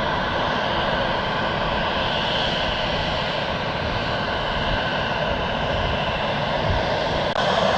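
Fixed-wing aircraft engines running with a steady, even noise. The noise jumps slightly louder just before the end.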